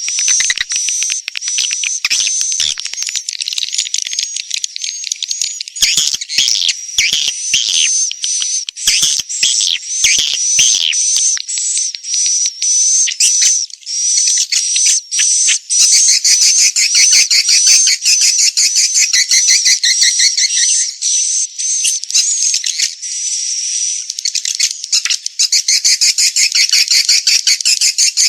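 Swiftlet call lure: edible-nest swiftlet calls in a continuous, dense, high-pitched twittering chatter of rapid clicks and chirps. It is the kind of recording played at a swiftlet house to draw the birds in to nest.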